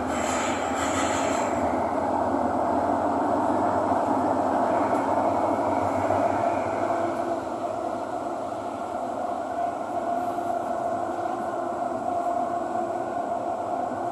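Thomson-East Coast Line metro train running between stations, heard inside the carriage as a steady rumble and hum. It grows louder over the first couple of seconds as the train picks up, then holds.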